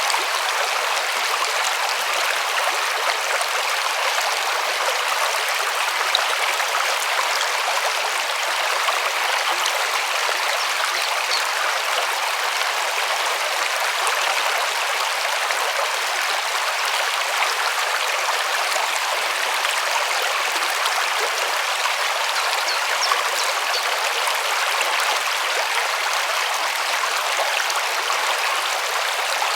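A river rushing steadily over stones, an even splashing hiss of flowing water.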